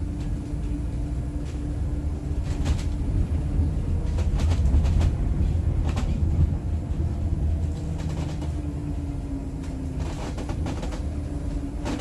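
Electric bus under way, from a Scania K310IB chassis converted by Eletra: a low road rumble under a steady electric-motor whine. The whine sags slightly near the end as new rising tones come in, and there are occasional light rattles and clicks.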